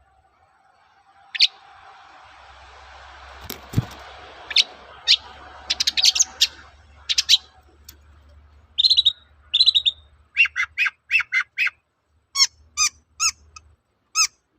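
Long-tailed shrike singing: a string of short, sharp, high notes, some single and some in quick clusters, with a fast run of about six notes after the middle and four ringing notes near the end.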